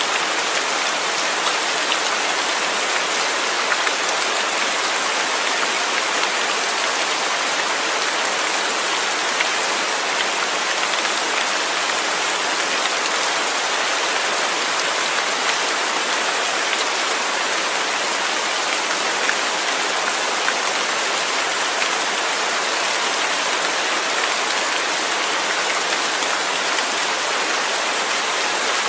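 Steady rain falling, an even, dense hiss with scattered drops ticking on a surface.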